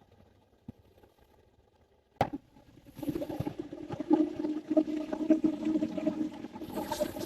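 Spinning reel: a sharp click, then the reel cranked steadily, its gears whirring with a fine ticking as a spinner lure is retrieved.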